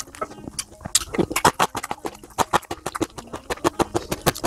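Close-miked eating sounds: wet chewing of a mouthful of noodles and pork trotter soup, with quick, irregular mouth clicks and smacks.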